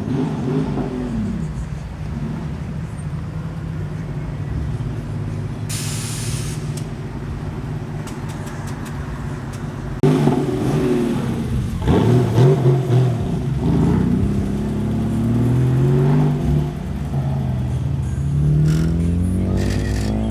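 Car engines running: a steady idle, then from about halfway the level jumps and the engines rev, with the pitch rising as a car accelerates near the end.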